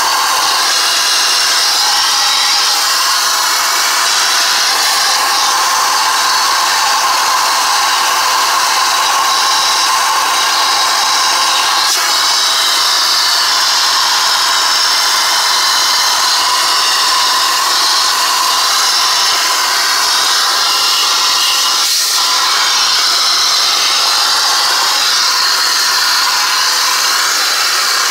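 A small electric motor running steadily with a loud rushing of air, the sound of dust and lint being cleaned out of a space heater. There is a faint click about twelve seconds in and another about twenty-two seconds in.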